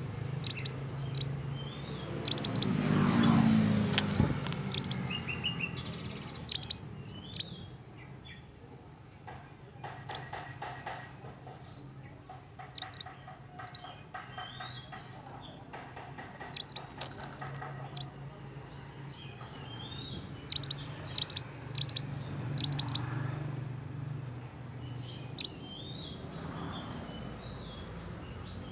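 Scarlet minivet ('burung mantenan') calling actively in repeated clusters of short, sharp high chirps and quick sweeping notes, several a second. About three seconds in, a louder sound falling in pitch passes under the calls, like a passing vehicle.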